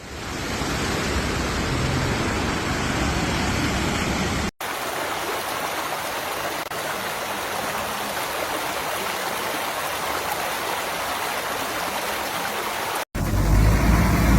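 Steady rush of fast-flowing floodwater, broken by two abrupt drop-outs, about four and a half seconds in and near the end; after the second, a heavier low rumble takes over.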